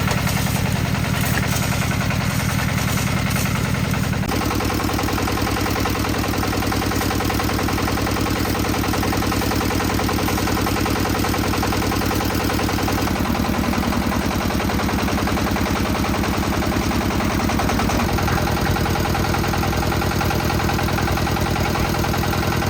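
Concrete mixer's engine running steadily, its pitch stepping to a new level three times. A clatter sounds over it for about the first four seconds.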